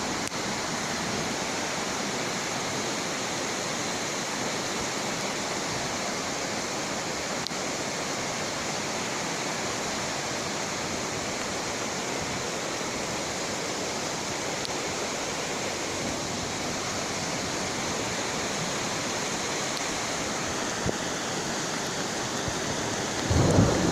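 A torrent of floodwater rushing steadily, one unbroken wash of noise at an even level throughout.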